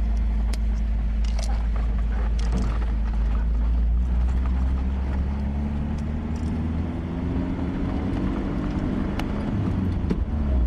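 An engine running steadily with a deep, low note, its pitch rising slightly partway through, with a few faint clicks.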